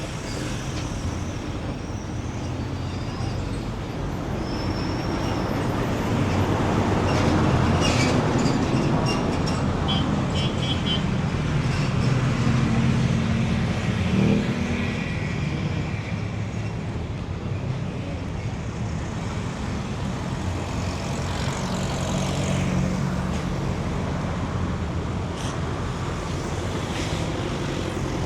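City street traffic: motor vehicle engines running and passing close by, growing louder through the middle and easing off later, with a short run of quick beeps about ten seconds in.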